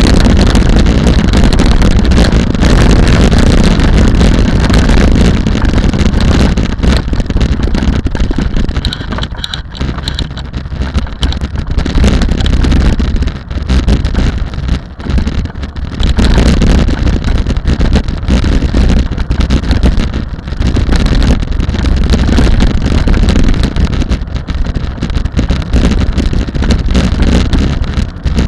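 Rally car engine running hard with heavy wind noise on the microphone, dipping briefly a few times.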